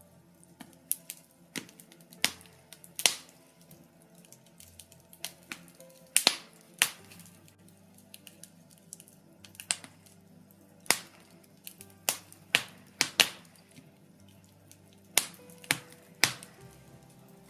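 Birch logs burning in a fireplace, crackling with irregular sharp pops and snaps, some much louder than others, over soft sustained background music.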